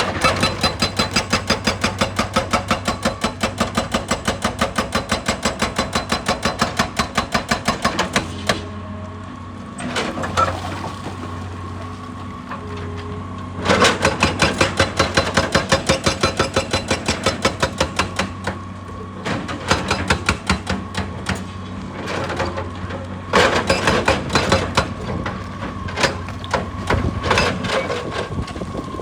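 Excavator-mounted hydraulic rock breaker hammering on rock in rapid blows, about five a second. It stops for a few seconds, leaving the machine's engine running with a steady low hum, then starts again in shorter runs.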